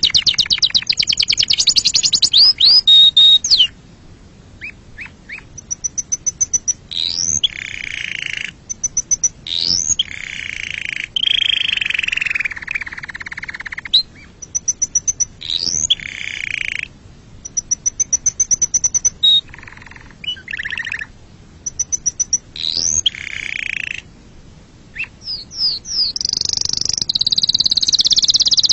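Domestic canary singing: a fast trill, then phrases of short high repeated notes, rising and falling sweeps and rolling trills, separated by brief pauses.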